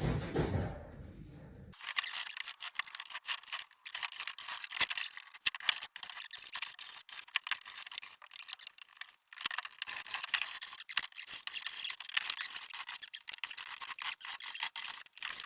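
Scrubbing on old, dirt-blackened wooden floorboards: a scratchy, irregular rasping full of small clicks. It starts about two seconds in and has a brief pause midway.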